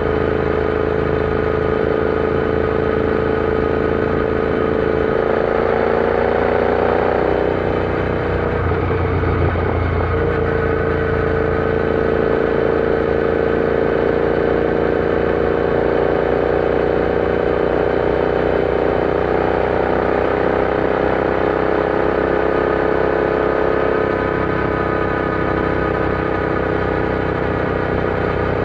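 Royal Enfield Interceptor 650's parallel-twin engine running steadily under way, its pitch rising a little about five seconds in. There is a short unsettled stretch around nine seconds, then the note holds level again.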